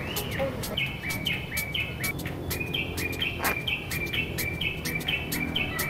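Birds chirping, one call of a short high note dropping to a lower held note, repeated about twice a second over a steady low background.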